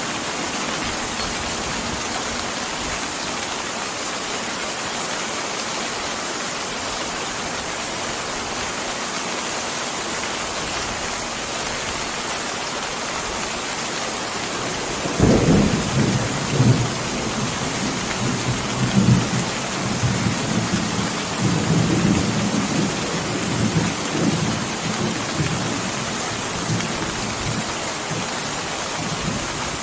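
Steady rain hiss throughout. About halfway through, thunder rolls in: an irregular low rumble that swells and ebbs for some twelve seconds before it fades back under the rain.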